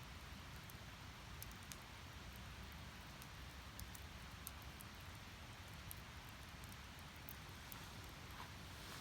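Firewood burning in a fire pit: a faint, steady hiss and rumble of flames with small, scattered crackles and pops.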